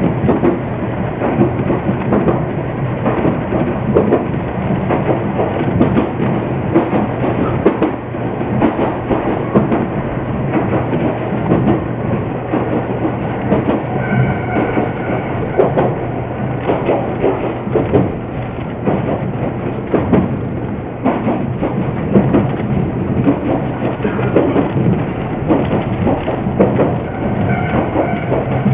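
Iyo Railway electric train running along the Gunchu Line, heard from just behind the cab's front window: a steady rumble and hum of wheels on the rails with frequent irregular clacks. A faint high whine comes in briefly about halfway through and again near the end.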